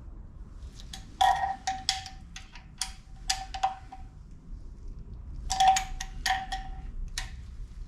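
Ratchet wrench clicking in two short runs of sharp metallic clicks, tightening 10mm engine bolts by hand feel rather than to a torque figure.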